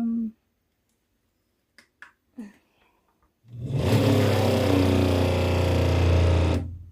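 12-volt Seaflow RV water pump switched on and running with a steady buzzing hum for about three seconds, then cutting off abruptly near the end. The cut-out is the pump's pressure switch stopping it once the line pressure builds: the repaired plumbing is holding without a leak.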